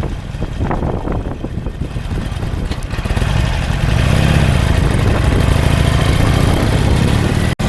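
A vehicle under way: steady low engine and road rumble that grows louder about three seconds in, with the engine pitch briefly rising and falling soon after. The sound cuts out for an instant near the end.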